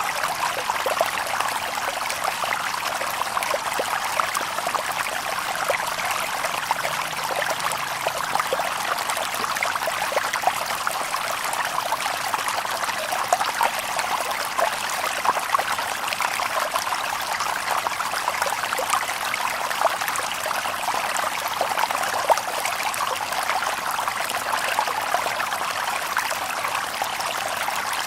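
Shallow stream babbling over stones: a steady trickling, splashing rush full of small bright gurgles.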